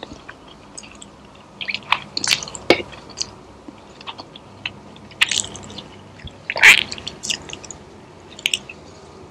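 A person eating close to the microphone: chewing and wet mouth smacks in irregular bursts, louder around two to three seconds in and again about six and a half seconds in.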